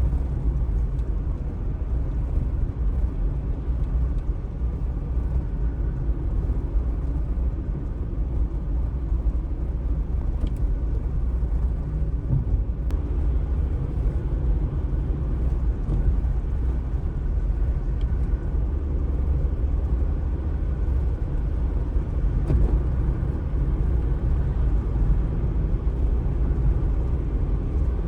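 Outdoor city street ambience: a steady low rumble with a few faint clicks.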